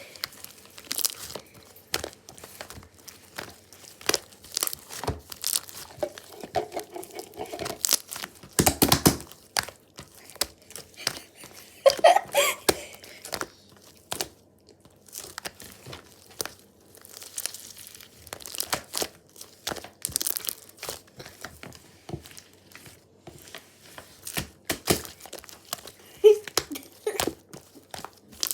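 Thin sheet material crinkling, rustling and tearing as it is handled close by, in irregular bursts. It is loudest about nine and twelve seconds in.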